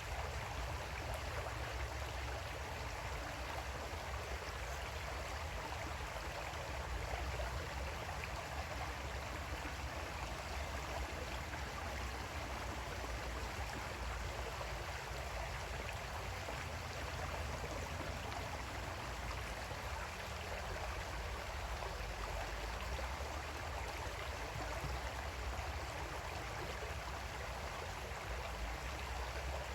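Creek water flowing and burbling over stones: a steady, even rush with no breaks, and a deep rumble underneath.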